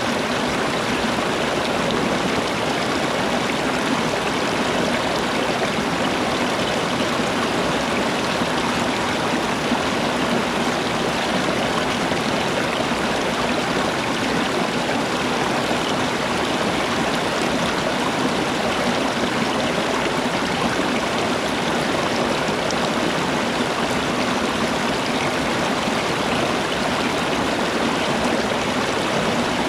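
Steady, unbroken rush of flowing water, like a stream running over rocks.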